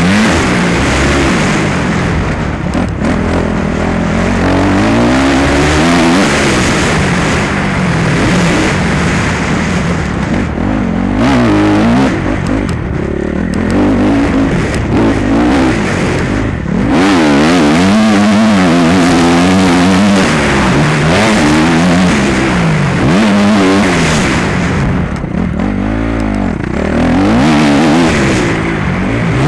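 Motocross bike engine at high revs, its pitch climbing and dropping again and again as the throttle is opened and shut and gears are changed, with a few brief dips in level.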